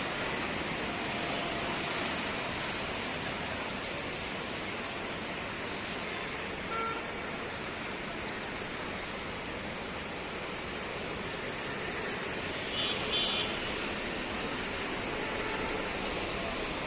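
Steady rushing noise throughout, with a brief high-pitched tone about thirteen seconds in.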